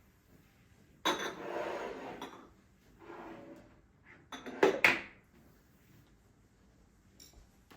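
Dishes and cutlery being handled: a clatter starting suddenly about a second in and lasting about a second, then two sharp clinks near the middle.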